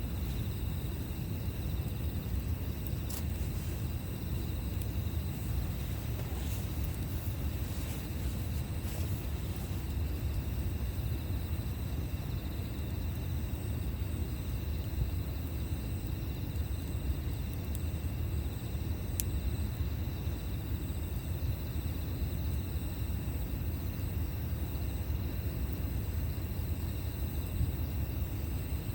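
Campfire burning: a steady low rumble with a few sharp crackles and pops of burning wood, the sharpest about nineteen seconds in.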